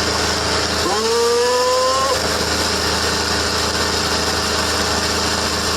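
Diesel tractor engines running loudly and steadily under a tractor tug-of-war. About a second in, a single tone rises and then holds for about a second over the engine noise.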